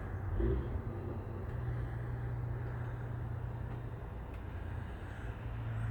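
Low, steady hum of an idling truck engine, its drone becoming more even about a second and a half in.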